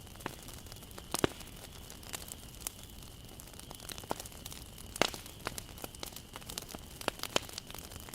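Wood bonfire crackling: irregular sharp pops and snaps over a low hiss, with louder pops about a second in and about five seconds in.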